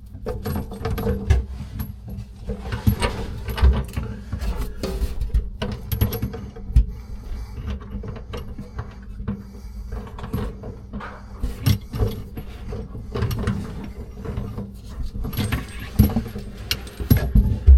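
Irregular knocks, clicks and metallic rattles of hands and tools working in a cramped sink cabinet, fitting faucet supply lines to the valves.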